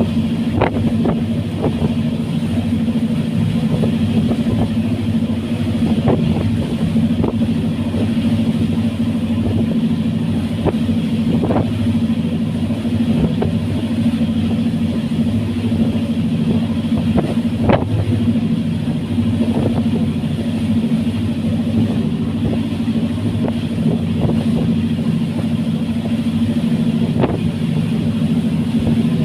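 Fast ferry's engines running with a steady low drone, with a few short knocks now and then.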